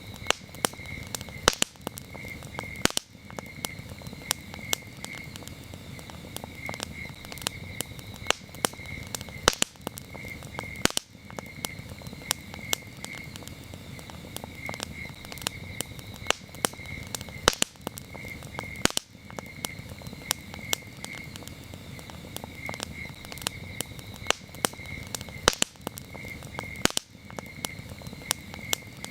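Campfire crackling, with frequent sharp pops over a low, even rush of burning, while crickets chirp in a steady, pulsing high trill.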